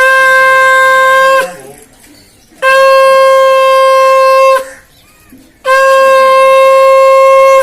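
Conch shell (shankh) blown in three long, steady, loud blasts, each about one and a half to two seconds, with short pauses between; the customary conch call of a Hindu puja.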